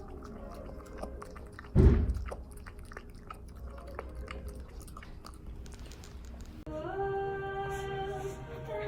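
Scattered faint clicks and ticks with one loud thump about two seconds in, then background music with held notes starts near the end.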